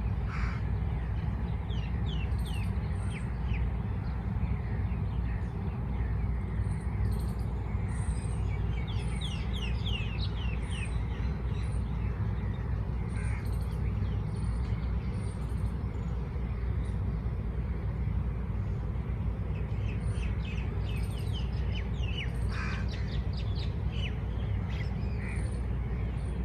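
Birds calling outdoors: bursts of quick, repeated high chirps, with a few harsher single calls among them. A steady low rumble sits underneath.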